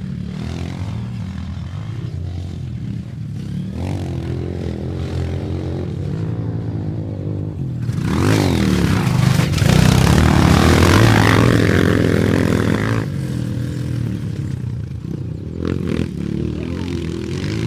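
Honda CRF230's air-cooled single-cylinder four-stroke engine running steadily, then revving up and down for several seconds from about eight seconds in, louder and rougher, before settling back.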